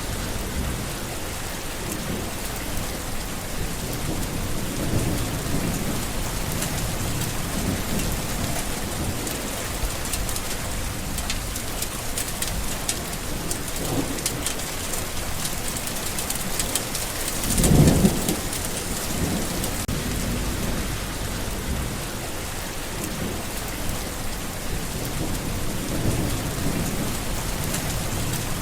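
Steady heavy rain with rumbling thunder, and one louder, sharper thunder crack about two-thirds of the way through.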